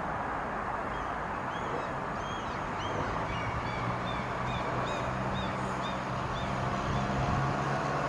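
A small bird chirping a quick run of short high notes over a steady rumble of station and traffic noise, with a low electric hum from a train coming in about three seconds in and growing.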